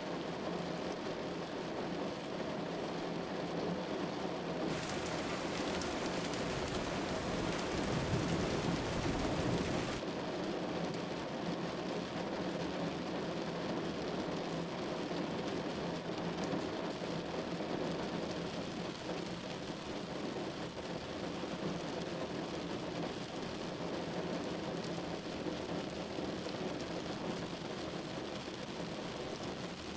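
Steady patter of precipitation falling on a surface, with a louder, deeper stretch from about five to ten seconds in that begins and ends abruptly.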